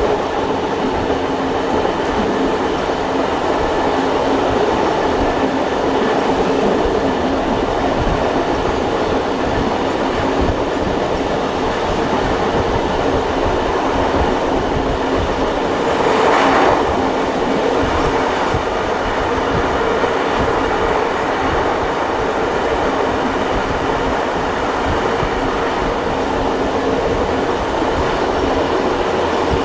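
Train hauled by steam locomotives 3526 and 3265, heard from on board: a steady rumble and clatter of wheels on the rails while running, with a brief louder rush about halfway through.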